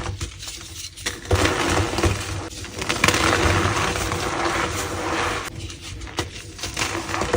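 Green-dyed gym chalk balls crushed and crumbled by hand: gritty, powdery crunching with sharp cracks, loudest from about three seconds in and easing off over the last two seconds.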